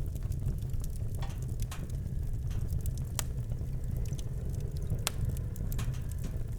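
Campfire crackling, with irregular sharp pops of burning wood over a steady low rumble.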